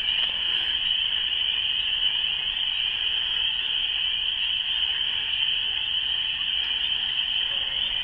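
Dense spring chorus of many frogs calling together, a steady high-pitched shrill with no breaks.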